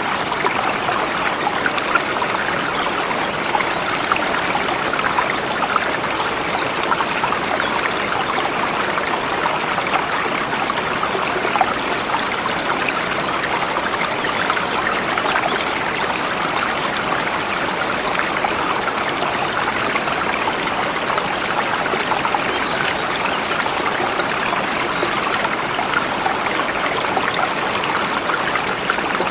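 Forest river flowing over rocks: a steady rush of water with dense small splashes and trickles.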